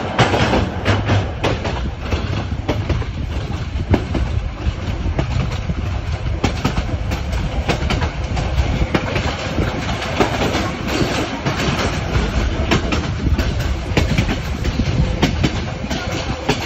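Passenger train carriage running along the track, heard from an open window: a steady rumble and rattle, with irregular clicks of the wheels over rail joints.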